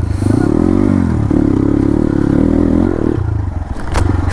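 Dirt bike engine running under load on a rough trail, the revs dipping and climbing again about a second in, then holding before easing off after about three seconds. A few sharp knocks near the end.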